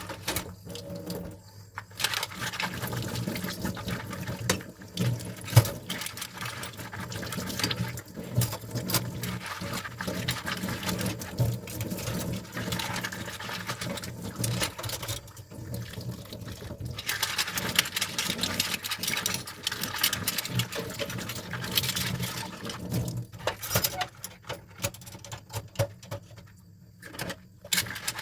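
Dishes being washed by hand in a sink: running and splashing water with frequent clinks and clatter of dishes, easing off briefly a few times.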